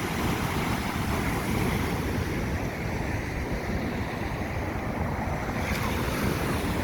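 Ocean surf rushing steadily against the shore in high seas, mixed with wind on the microphone.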